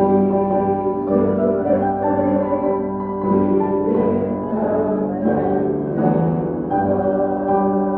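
Slow keyboard music, held piano-like chords changing every second or two.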